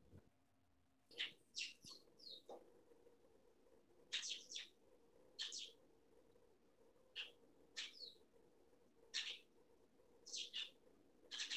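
A small bird chirping: short, high chirps, some falling in pitch, in little groups of one to three, every second or so.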